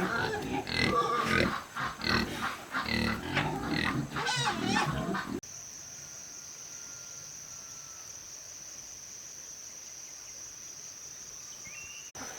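Pigs grunting and squealing for about five seconds, then a sudden cut to a steady high-pitched hum over a quiet background.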